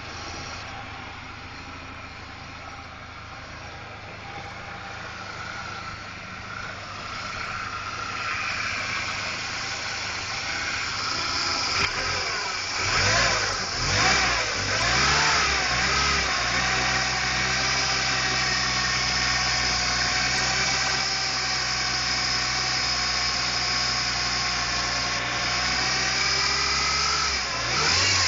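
1999 Ford Ranger 2.5-litre four-cylinder engine running, heard up close in the engine bay. It runs steadily at first, is revved up and down several times about twelve seconds in, then settles back to a steady run, with one more short rev near the end. The seller describes it as a good running motor.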